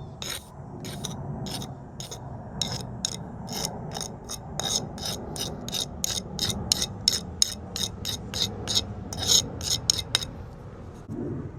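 Metal mortar jointing tool scraping along a fresh mortar joint between flagstones in quick repeated strokes, about two to three a second, tooling and smoothing the joint. The strokes stop near the end.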